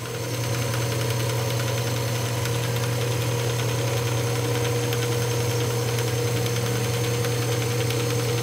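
Wood lathe running steadily with a turned wooden shovel handle spinning on it, an even motor hum.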